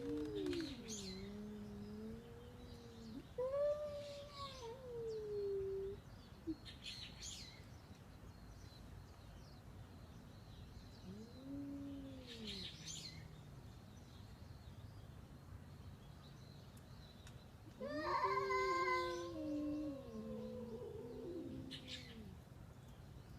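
A cat meowing four times in long, drawn-out meows that rise and fall in pitch, the last about 18 seconds in being the loudest. Short bird chirps sound faintly in the background.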